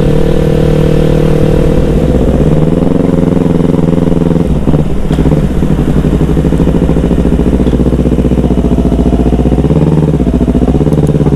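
Yamaha R25's 250 cc parallel-twin engine running through an aftermarket DX Generation Racing undertail dual-silencer exhaust with no dB killer fitted, heard while riding at a steady pace. The revs ease off and pick up again a couple of times.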